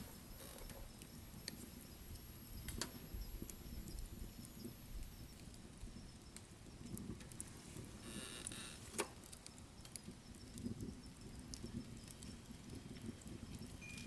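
Wood fire burning in a wood stove: irregular small crackles and pops over a soft low rumble of flames, with a brief hiss a little past halfway and the sharpest snap just after it.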